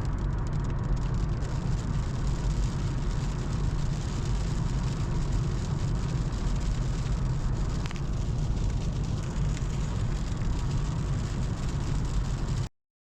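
A car driving at steady speed, heard from inside the cabin: an even rumble of engine and road noise. It cuts out abruptly for a moment near the end.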